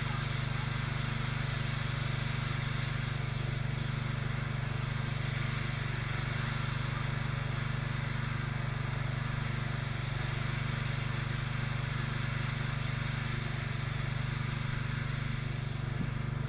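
Tractor engine running steadily at an even pace, a constant low drone.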